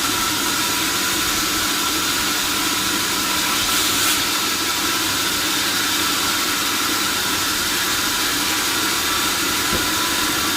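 Sawmill machinery running steadily: an even hissing noise over a constant machine hum, with a brief louder rush about four seconds in.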